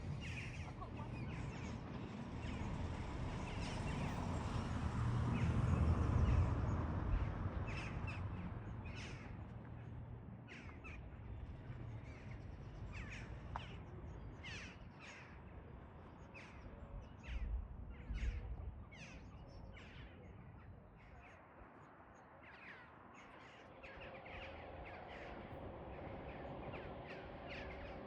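Crows cawing repeatedly in short, sharp calls over a low rumble that is loudest about five seconds in and then fades away.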